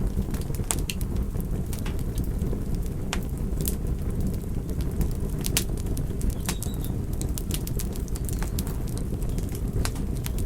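Wood fire burning, with a steady low rush of flame and frequent irregular crackles and sharp pops from the burning wood.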